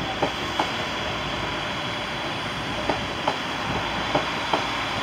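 West Midlands Railway Class 196 diesel multiple unit passing at low speed: a steady running noise with three pairs of sharp clacks as its wheels cross rail joints.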